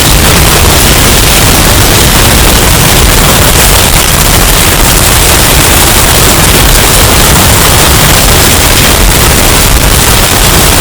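Hurricane wind sound effect, bass-boosted and heavily distorted into a loud, clipped, steady roar of noise across all pitches with a heavy low end.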